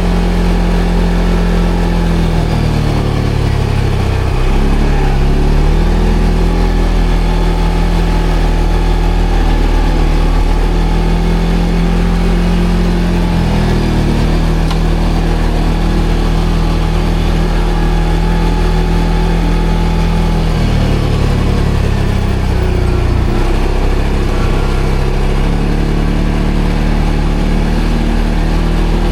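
ATV engine running steadily on the move, its pitch dropping and picking back up with the throttle a few seconds in, near the middle, and again about two-thirds of the way through.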